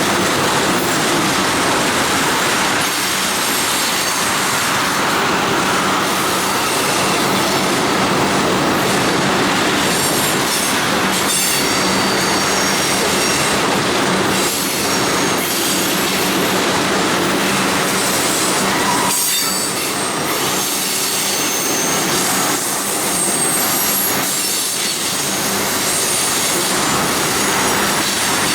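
Freight train cars rolling past: a loud, steady rattle of wheels on rail, with high-pitched wheel squeal coming and going.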